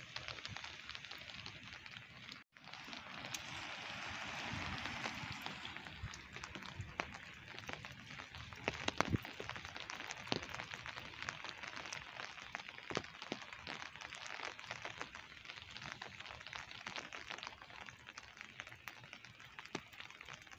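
Light rain pattering and dripping around a walker on a wet street, with many small scattered ticks. A car's tyres hiss past on the wet road a few seconds in, and the sound cuts out for an instant just before that.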